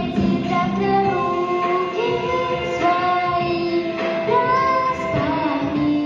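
A song with a child's or young female voice singing held notes over a backing track.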